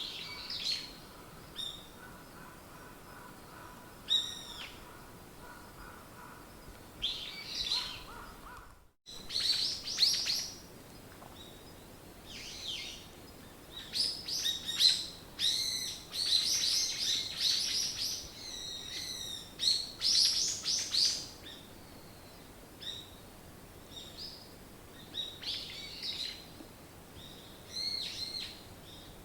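Wild songbirds chirping and singing, with short calls overlapping, sparse at first and busiest in a dense chorus about halfway through. About nine seconds in, the sound drops out completely for a moment, as at an edit, and a faint steady high hum heard before the break does not return.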